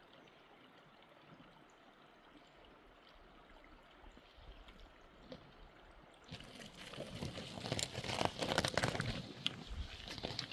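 Running water, faint at first and much louder with a choppy, splashing texture from about six seconds in.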